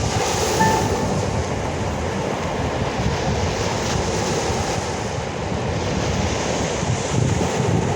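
Steady rushing of sea surf, with low wind rumble on the microphone.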